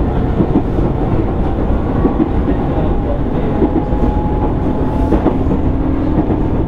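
Running sound heard inside a JR East 205 series 600 subseries electric train's motor car, MoHa 204-604, on the move. A steady rumble and a hum from the motor and gears are joined by irregular clicks of the wheels over the rail joints.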